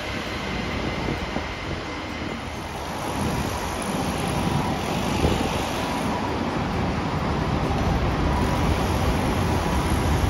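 A train running past: a steady rumble that slowly grows louder, with a faint high whine in the second half.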